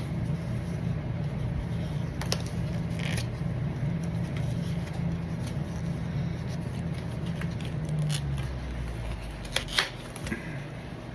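Packaging being handled and torn open for the next mailed trading card, with scattered short crackles and rustles, over a steady low hum that drops lower about eight seconds in.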